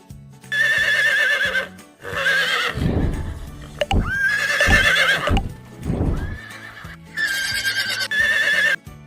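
Horse whinnying four times, each call quavering in pitch, with a few hoofbeats in the middle, over a light background tune.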